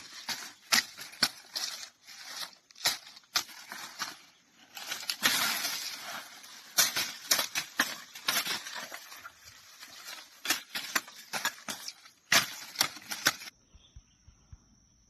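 Dry corn stalks being chopped, an irregular run of sharp cracks and crunches with a longer stretch of crackling about five seconds in. The chopping stops near the end, leaving a faint steady insect trill.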